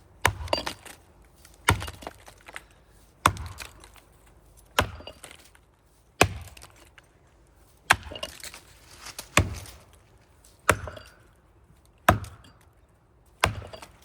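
Axe chopping into the trunk of a large maple tree while cutting the felling notch: about ten heavy strokes, evenly spaced roughly one every second and a half, with fainter knocks between them.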